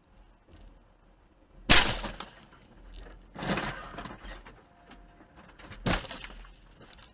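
Vehicle collision: a loud crash about two seconds in, followed by two more crunching impacts, one about three and a half seconds in and one about six seconds in.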